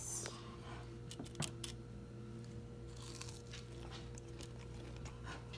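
Biting into and chewing a Hot Cheetos-crusted fried chicken tender, with scattered crisp crunches over a steady low hum.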